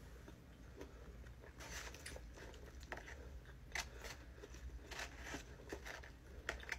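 Chewing fried chicken gizzards close to the microphone: faint crunches and wet mouth clicks at uneven intervals, over a low steady hum.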